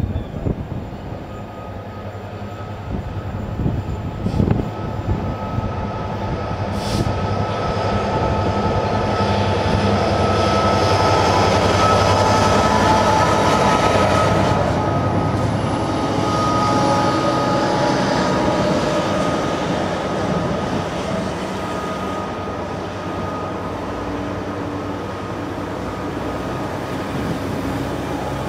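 A locomotive-hauled train passing close by, with the engine's steady low drone and a high, steady squeal from the wheels. It grows louder to a peak about ten to fifteen seconds in, then eases off as the train draws away.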